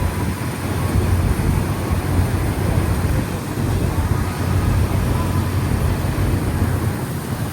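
Tour boat's engine running steadily under way, a low drone with wind and water noise over it.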